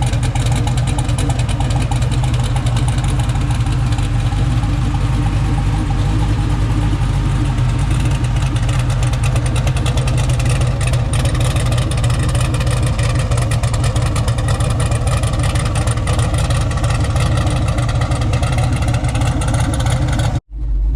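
Cammed LS V8 in a twin-turbo Ford dentside pickup idling steadily on a regular tune without chop: the straight cam sound. The sound cuts out for a moment near the end, then resumes.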